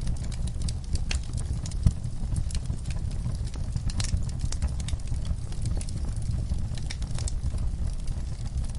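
Fire crackling, with irregular sharp pops over a steady low rumble of flame; one louder pop about two seconds in.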